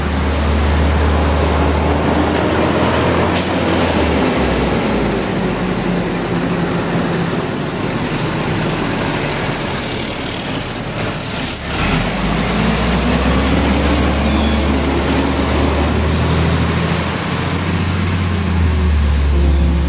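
Garbage truck running close by: a steady low engine rumble that eases off about four seconds in, then picks up again after a short sudden burst of noise a little past halfway.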